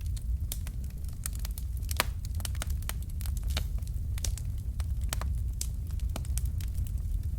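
Fire in a fireplace crackling: irregular sharp pops and snaps, one louder pop about two seconds in, over a steady low rumble of the flames.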